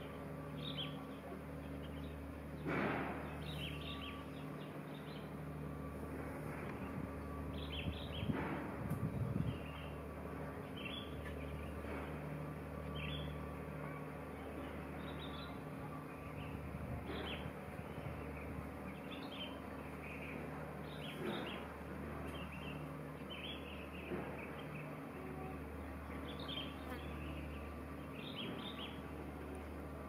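Small birds chirping: short high chirps every second or two, over a steady low hum. Brief louder noises about three seconds in and again around eight to nine seconds in.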